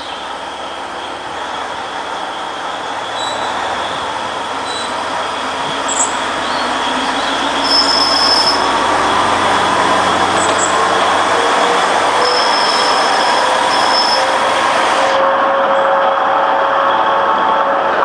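Alishan Forest Railway train being shunted by diesel locomotive DL50: carriages rolling on the narrow-gauge track with the wheels squealing against the rails, growing louder over the first half and then holding steady, with short high-pitched squeals now and then.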